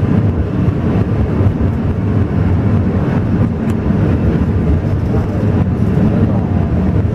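Alishan Forest Railway train running, a steady low rumble that stays level throughout.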